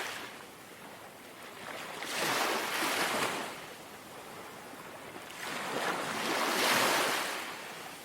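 Small sea waves washing onto the shore, twice, each swelling up into a rushing wash and ebbing away over a couple of seconds, with a soft steady hiss between them.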